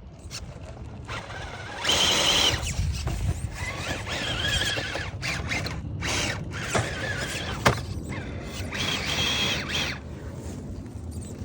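An electric RC rock crawler's motor and geared drivetrain whine in four bursts of throttle as it crawls over a log with its diffs locked, the pitch rising and falling with each burst. A single sharp click comes a little past halfway.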